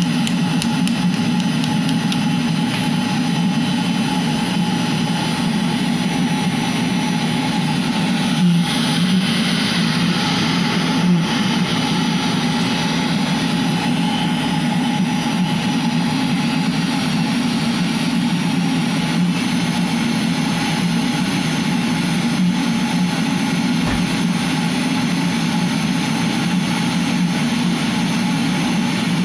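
Eberspächer Hydronic D5WZ diesel coolant heater running: a steady hum of its combustion-air fan and burner, with two short knocks about eight and eleven seconds in.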